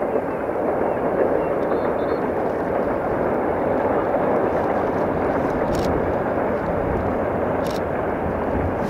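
Distant freight train rolling past, a steady, even rumble of wagons on the rails.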